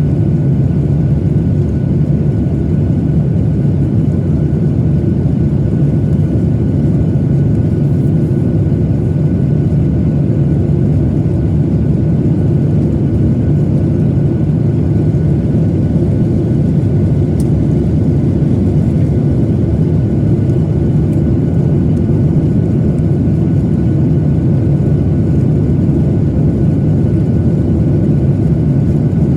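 Steady cabin noise inside a Boeing 737-900ER in flight: a constant low rumble of its CFM56-7B turbofan engines and airflow, with a faint steady whine.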